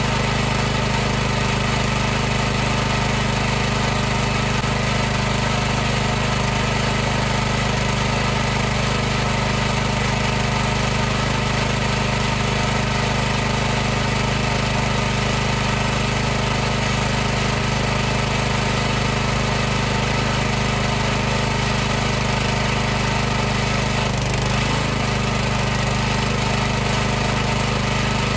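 High-pressure washer running continuously: a steady, unchanging motor-and-pump hum made of several steady tones over a hiss.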